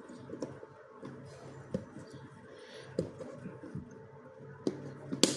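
Plastic Mathlink cubes clicking and knocking as they are handled and snapped together: a handful of separate sharp clicks, the loudest near the end.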